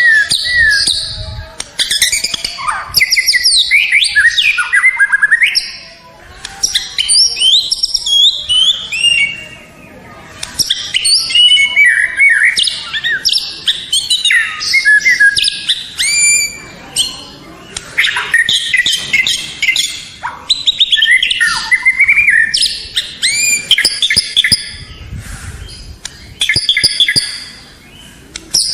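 White-rumped shama (murai batu) singing a loud, varied song of rapid whistles, slurred glides and trills. It sings in phrases of a few seconds each, with short pauses between them.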